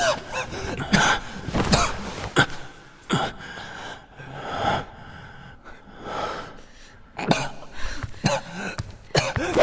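A person gasping and breathing hard in short, irregular bursts.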